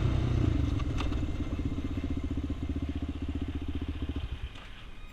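Motorcycle engine running with a fast, even beat, getting quieter and dropping away about four seconds in.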